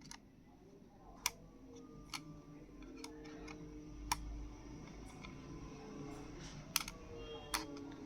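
A handful of light, sharp clicks and taps, about five spread over several seconds, from a wireless mouse being handled, its switch and buttons worked while its LED lighting is turned on.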